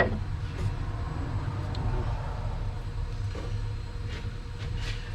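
A single sharp metallic knock at the start, ringing briefly, over a steady low rumble.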